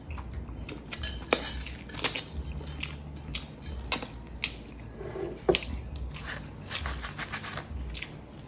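Close-miked chewing: irregular wet mouth clicks and smacks over a steady low hum.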